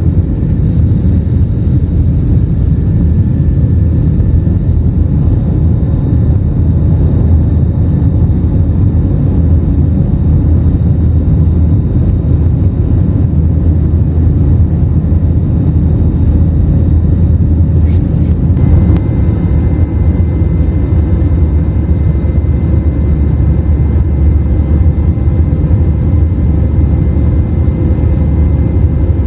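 Steady loud rumble of a passenger airliner's engines and airflow heard inside the cabin in flight.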